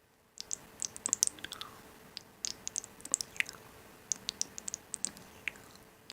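Close-up chewing of crisp food: a quick, irregular string of sharp crunches and clicks, starting about half a second in after a brief lull.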